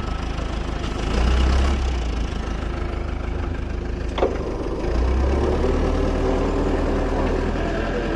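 Isuzu Elf crane truck's engine idling steadily, growing louder for about a second just after the start and again from about five seconds in. A single sharp click or clank comes about four seconds in.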